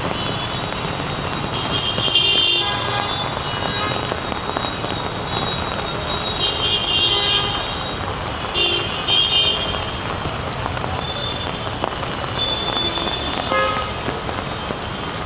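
Heavy rain falling steadily on a flooded street, with short vehicle horn toots several times: about two seconds in, around seven and nine seconds, and near the end.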